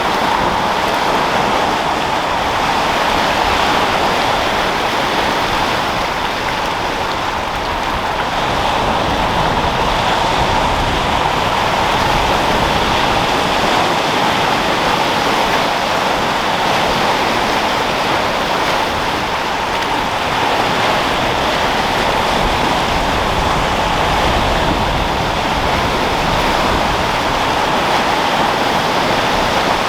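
Sea surf and wind: a steady rushing wash of breaking waves and foam, with only gentle swells in loudness and no single distinct crash.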